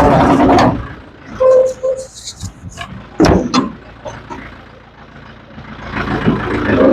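Tractor running loudly, falling away about a second in, with a brief squeal and a sharp clank around three seconds in, then loud again near the end.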